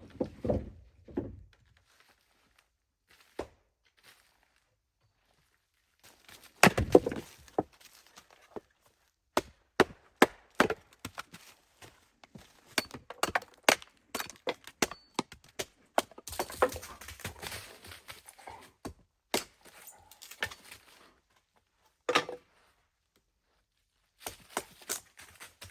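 A series of irregular wooden knocks, clacks and cracks, with pauses between the groups: wood being handled, knocked or split.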